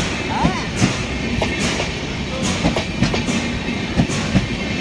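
Train running at speed, with a steady rumble and repeated clacks of the wheels over the rail joints.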